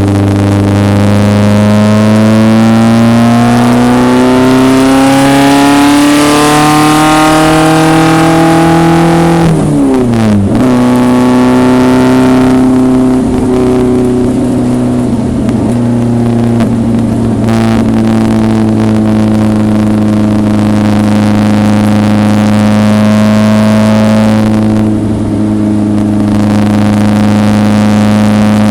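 1974 BMW 2002 race car's four-cylinder engine at speed on track, its pitch climbing steadily under acceleration for about ten seconds, then dropping sharply as the revs come down, then running at a roughly steady pitch for the rest.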